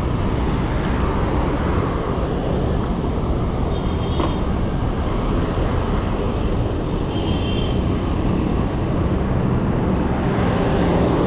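Steady road traffic noise mixed with wind on the microphone of a moving bicycle, with a couple of brief high tones about four and seven seconds in.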